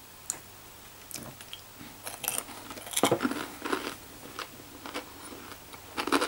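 Biting into and chewing a crispy breaded fried chicken strip, close to the microphone: irregular crunches of the thin, crisp coating, loudest about three seconds in and again near the end.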